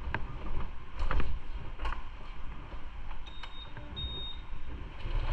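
Scattered knocks and clicks of handling, then two short high electronic beeps a little past halfway.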